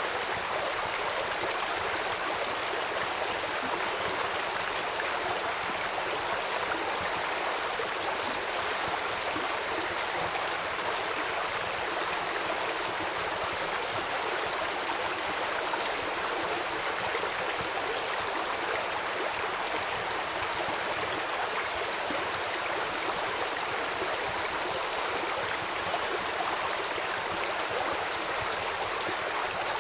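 River water rushing steadily. A faint high chirp repeats about twice a second through the middle of the stretch.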